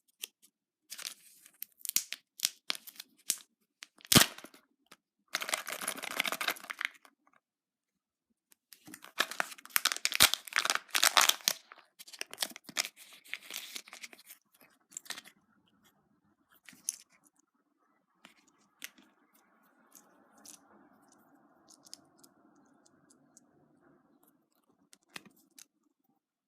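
Plastic wrapper of a Kinder Joy egg being torn open and crinkled, with one sharp click about four seconds in, then quieter rustling and small plastic ticks as the egg and its toy capsule are handled.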